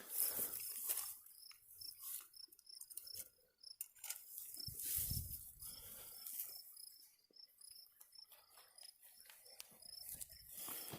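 Crickets chirping steadily, a thin high chirp repeating about three times a second, with a few brief rustling noises in between.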